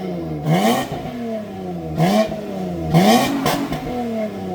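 Honda Accord J-series V6 being blipped about four times through a custom 3-inch exhaust, each rev rising quickly and then falling back toward idle.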